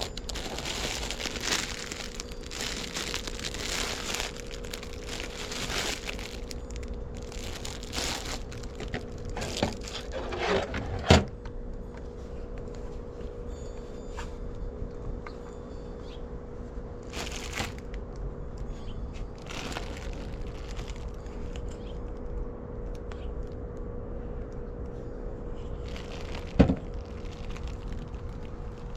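Rummaging through trash: plastic and paper crinkling and rustling in bursts, with two sharp knocks, one about eleven seconds in and a louder one near the end, over a steady hum.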